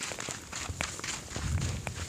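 Footsteps of people walking, a scattering of short steps and scuffs.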